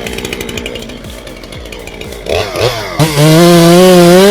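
Chainsaw running in a cut with a pulsing, uneven note, then revved up to full throttle about three seconds in, a loud steady high whine.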